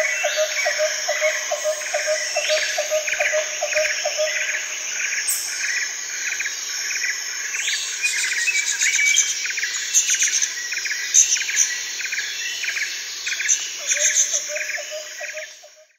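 A chorus of birds chirping with insects trilling, many quick repeated chirps layered together. A lower call repeats in quick, even pulses for the first few seconds and again near the end. The whole chorus fades out at the very end.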